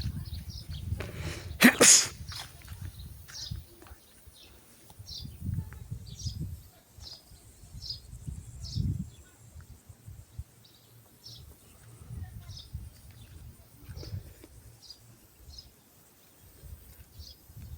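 Small birds chirping outdoors: short high chirps repeated every second or so. Low rumbling noise comes and goes underneath, with one loud sharp burst of noise about two seconds in.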